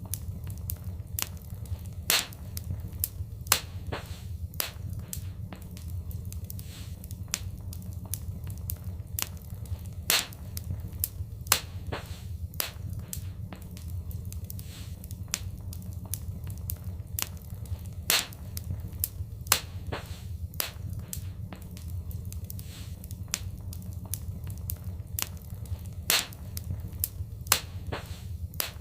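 Fire burning in a fireplace: a steady low rumble with irregular, sharp crackles and pops, a handful of them noticeably louder than the rest.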